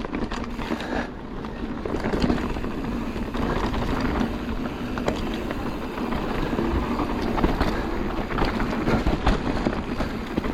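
Mountain bike ridden along a rough trail: tyres rolling over dirt and stones, with many short rattling knocks from the bike, over a steady low rumble of wind on the microphone.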